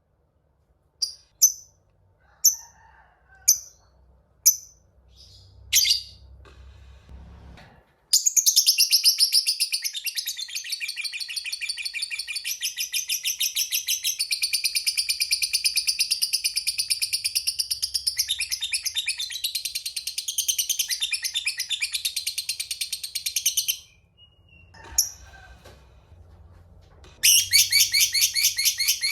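A lovebird gives several single sharp chirps about a second apart, then breaks into a long, fast, high-pitched chattering trill that runs for about fifteen seconds. It stops, gives one more chirp, and starts the rapid chatter again near the end. This is the long 'ngekek' chatter that hobbyists prize in fighter lovebirds.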